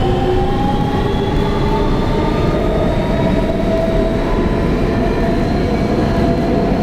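Kawasaki R160B subway car with Siemens traction motors running in the tunnel: a loud, steady rumble of wheels and car body, with the motors' whine rising slowly in pitch as the train picks up speed.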